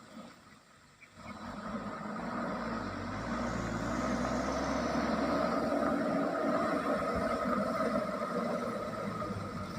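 Truck engine running, coming in about a second in, growing louder to a peak mid-way and easing slightly near the end, as a loaded truck drives near.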